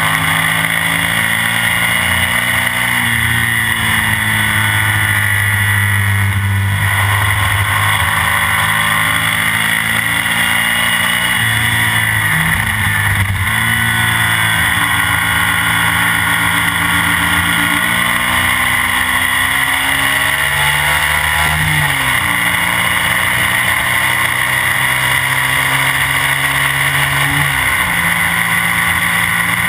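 A classic BMW racing sidecar outfit's engine running hard, heard from on board with wind rushing past. The engine pitch rises and falls repeatedly through gear changes and corners, dipping sharply about halfway through and again near the end.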